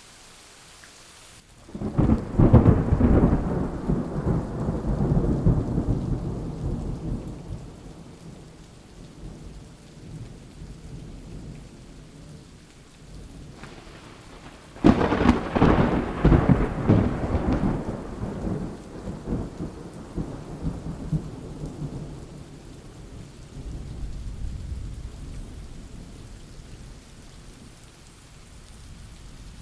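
Thunderstorm: steady rain hiss with two loud thunderclaps, about two seconds in and again about fifteen seconds in, each rumbling away over several seconds, and a softer rumble later on.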